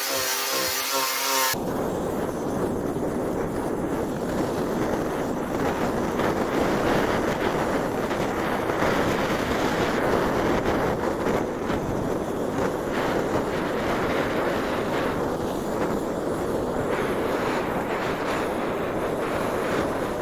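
Gas blowtorch burning with a steady rushing noise as it scorches a wooden tabletop. A whining, pitched tone cuts out about a second and a half in.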